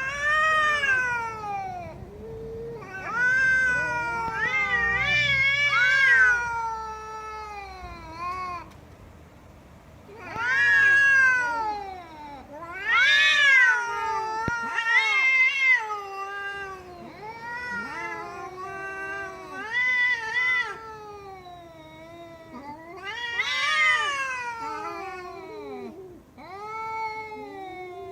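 Domestic cat yowling: a series of long, drawn-out meows that rise and fall in pitch, one after another, some overlapping.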